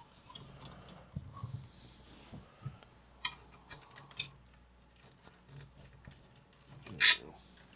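Scattered small clicks, taps and scrapes of hand tools on a Drake 2-B receiver's metal chassis as the old filter capacitor is worked loose. The sharpest clicks come a little past three seconds in and again near the end.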